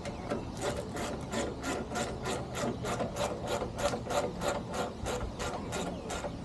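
Hand ratchet wrench clicking rapidly and evenly, about five clicks a second.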